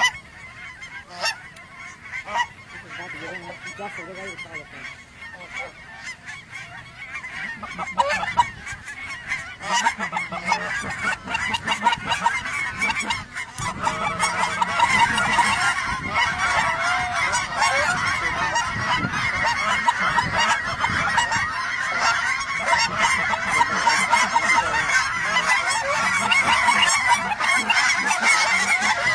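A large flock of geese calling, a dense continuous honking chatter that grows much louder about halfway through.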